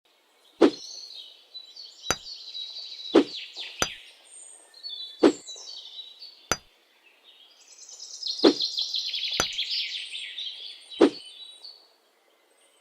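Birds chirping and twittering, with about nine sharp knocks at uneven intervals of one to two seconds.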